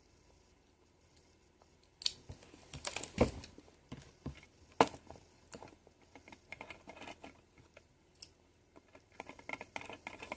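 Hands working a plastic DIY candy kit (a toy washing machine): a run of irregular clicks, taps and crinkles from plastic parts and packaging, starting about two seconds in, with a couple of louder knocks.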